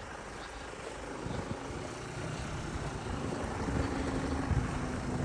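A motor vehicle's engine running and drawing nearer, getting steadily louder, with a steady hum coming in about three seconds in.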